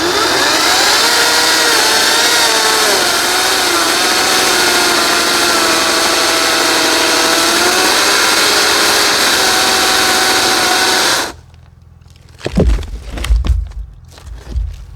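Ryobi 40V HP brushless cordless chainsaw cutting a log, its motor whine sagging in pitch under load, then cutting out abruptly about eleven seconds in. The saw is stalling, which the owner guesses is the motor going into overheat protection. A few low thumps follow.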